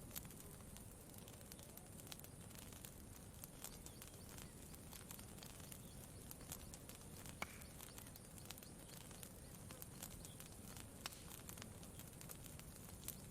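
Campfire crackling quietly: scattered sharp pops and snaps at an irregular pace over a faint low, steady wash.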